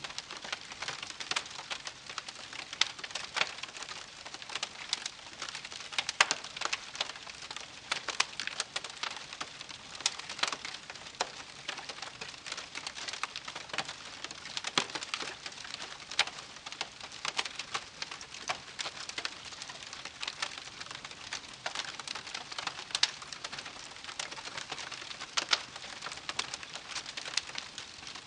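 Wood campfire crackling steadily: a dense run of small snaps and ticks with a few louder pops scattered through.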